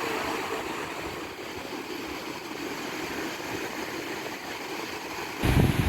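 Steady rushing of rough sea and wind heard aboard a boat. Near the end it cuts abruptly to louder wind buffeting the microphone.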